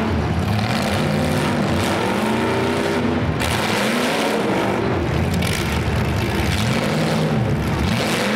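Demolition derby car engines revving hard under load as the locked-together cars push against each other, their pitch rising and falling again and again.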